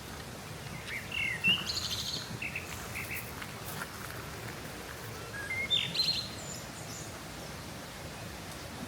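Small birds calling: clusters of short chirps and trills about a second in, again around three seconds, and a louder burst near six seconds, over a soft steady background noise.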